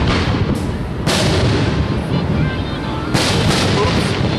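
Aerial fireworks shells bursting: sharp booms at the start, about half a second in, about a second in and again around three seconds in, over a continuous heavy low rumble from the display. The explosions are deep enough to sound like war explosions.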